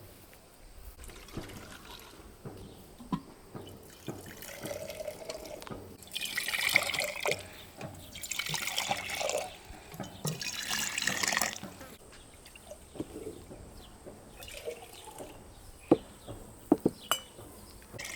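Water being poured in three separate pours of about a second and a half each, followed by a few sharp knocks near the end.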